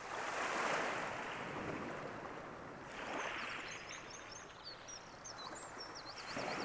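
Waves washing onto the shore, swelling and falling back about every three seconds. From about three and a half seconds in, a small songbird sings a run of quick, high chirping notes over the surf.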